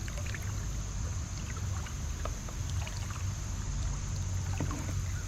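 Small water splashes and drips at the side of a kayak while a chain pickerel is held in the water to revive it, over a steady low wind rumble on the microphone.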